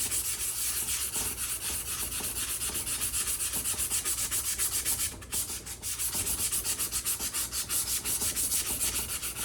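Sandpaper rubbed by hand over an old iron axe head in quick, even back-and-forth strokes, scouring off rust. There is a short pause a little past halfway, then the strokes resume.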